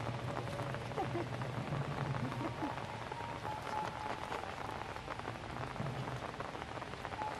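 Light rain falling and dripping onto surfaces: a steady hiss dotted with many small drop ticks.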